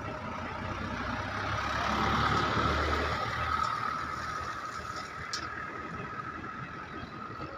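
A train passing: a steady rumble with a held high tone that swells to its loudest about two to three seconds in, then slowly fades.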